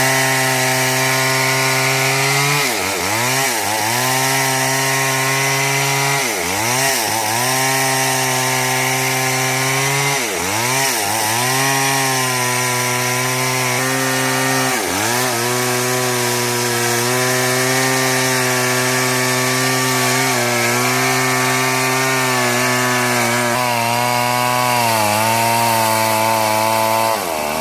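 Chainsaw running at high revs while cutting a tree. Its pitch dips sharply and recovers several times, mostly in pairs in the first half and once more a little past the middle. It steadies after that, then the engine drops in pitch right at the end.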